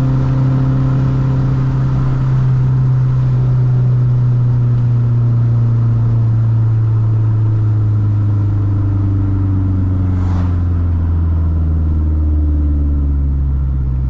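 Mazdaspeed3's turbocharged 2.3-litre four-cylinder with a straight-piped exhaust, droning steadily as the car drives, its pitch slowly falling as the engine speed drops.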